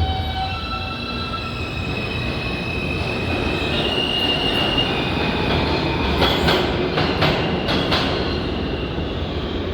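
R160A subway car running, heard from inside: a steady low rumble with high thin tones that come and go above it, and several sharp clicks between about six and eight seconds in as the wheels pass over rail joints or track work.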